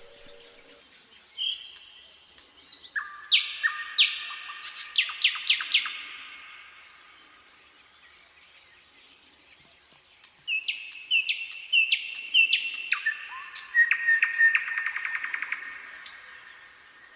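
Nightingale singing two phrases of loud whistled and sharply repeated notes, separated by a pause of a few seconds. The second phrase ends in a fast rattling trill.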